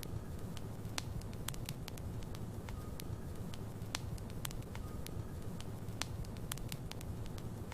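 Wood fire burning in a fireplace: frequent irregular sharp crackles and pops from the burning logs over a steady low rumble of the flames, with a few brief faint whistles.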